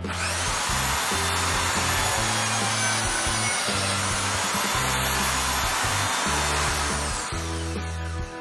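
Electric power-tool motor starts up and runs with a high whine. The whine dips briefly about four seconds in, then falls in pitch as the motor winds down near the end. Background music plays throughout.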